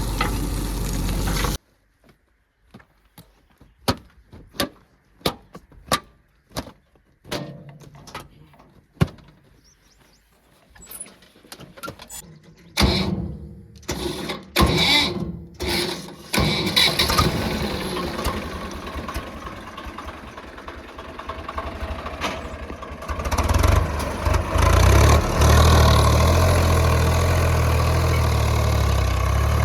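Diesel machinery engine: a run of sharp clicks or knocks, then the engine starting up and settling into a steady run, with a heavier low rumble from about two-thirds of the way through.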